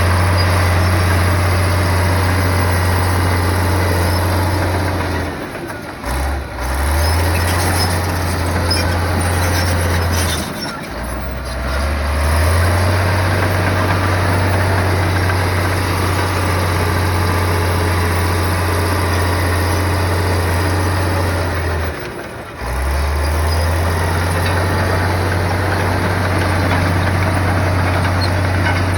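Heavy bulldozer's diesel engine running with a steady low drone. It drops briefly and comes back about a third of the way in, again near the middle, and once more about three quarters of the way through.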